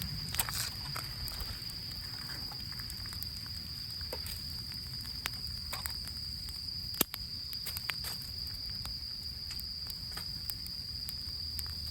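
Small campfire of rain-damp wood crackling with scattered sharp pops, the loudest about seven seconds in, over a steady high-pitched insect trill.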